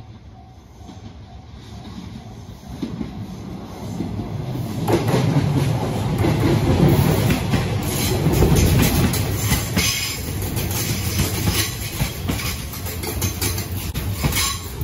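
Electric commuter train approaching and passing close by. It grows louder over the first few seconds into a heavy rumble, then its wheels give a rapid, rhythmic clatter over the rail joints as the cars go past.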